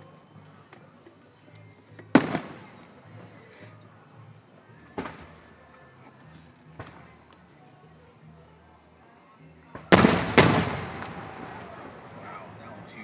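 Aerial fireworks shells bursting: a loud bang about two seconds in, a smaller one around five seconds, and a loudest double bang near ten seconds, each echoing away.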